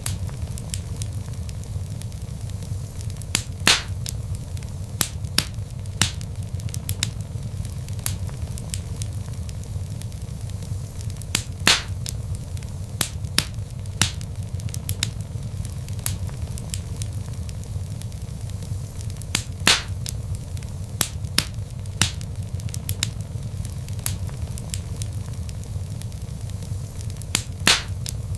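Wood log fire burning in a fireplace, crackling with frequent irregular sharp pops over a steady low rumble of the flames; a handful of pops stand out louder than the rest.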